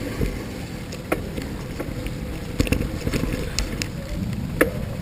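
Wind rumbling on the microphone and road noise from a moving bicycle, with a few sharp knocks or rattles, about a second in, mid-way and near the end.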